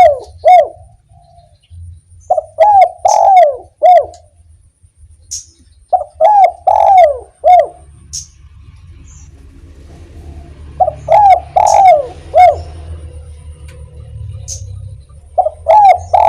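Spotted dove (derkuku) cooing its 'kuk 1' song: phrases of four to five low coos, about one phrase every four seconds, each with a longer drawn-out note near the middle and a separate last coo.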